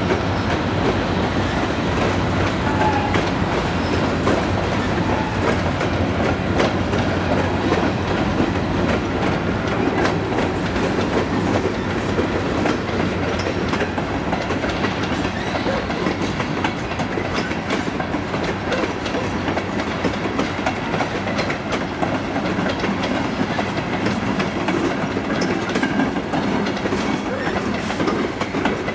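Freight train's covered hoppers and boxcars rolling past: a steady rumble of steel wheels on the rails, with frequent clacks and knocks as the wheels pass over the rail joints.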